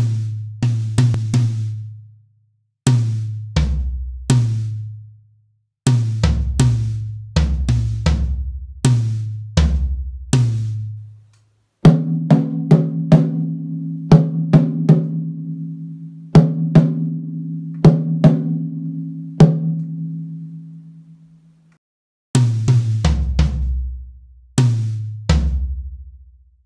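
Drum kit playing short syncopated phrases of sharp snare-like hits over low, ringing bass-drum and tom tones, each phrase cut off into a brief gap. Around the middle, a low held chord sounds for about ten seconds under quick, evenly spaced sharp hits, and then the drum phrases return.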